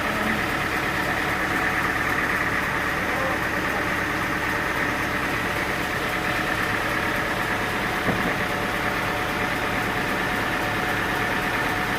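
Sawmill machinery running steadily with a constant whine, its engine or motor unchanging in speed, with one short knock about eight seconds in.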